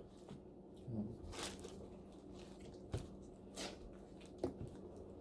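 Faint eating sounds from a seafood boil: a handful of short, wet smacks and clicks of chewing and handling the food.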